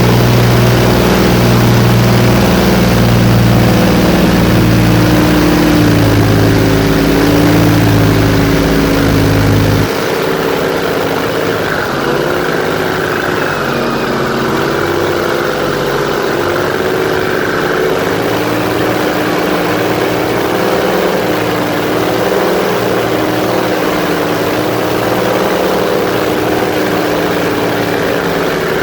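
Airboat engine and air propeller running steadily, then throttling back about ten seconds in to a lighter, lower-powered run.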